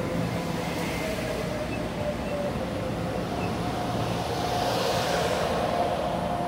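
Local electric commuter train (multiple-unit) pulling into a station, with rail and running noise and a steady faint whine.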